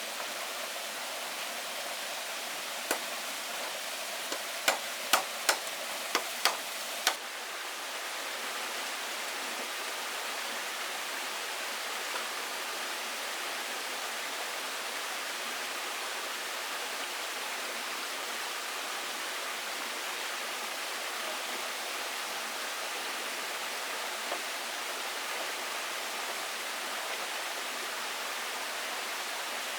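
A steady rush of running water, with about eight sharp knocks in the first seven seconds.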